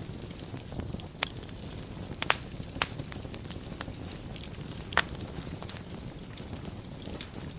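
Wood fire burning in a fireplace: a steady low rumble of flames with scattered sharp crackles and a few louder pops, the loudest about 2.3 s and 5 s in.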